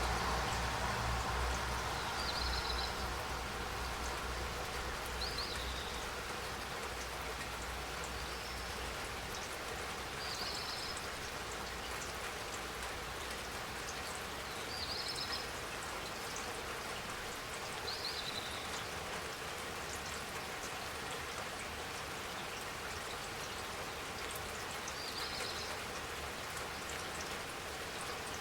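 Steady spring rain falling, with fine drops ticking on surfaces. A low rumble fades out over the first few seconds, and a bird gives short high chirps about seven times.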